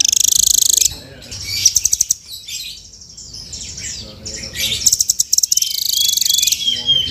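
Rambatan (nuthatch) giving fast, high-pitched trills: one lasting about a second at the start, a short burst about two seconds in, and a longer trill from about five seconds to near the end.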